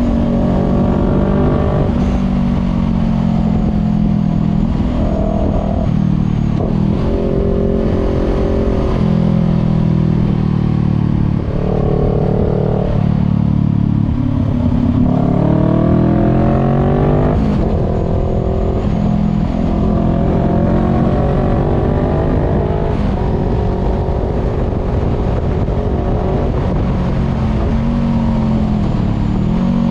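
Voge 500R motorcycle's parallel-twin engine running through a full exhaust with the dB killer removed, heard from onboard while riding. The engine note climbs as it accelerates and drops at each gear change, with a long rising pull from about twelve to seventeen seconds in.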